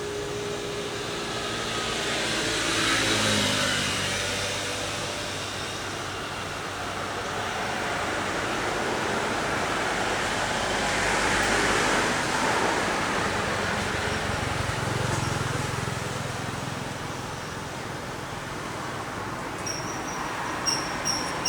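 Road traffic: vehicles passing by, the noise swelling about three seconds in and again about eleven seconds in. Near the end comes a quick run of short, high-pitched pips.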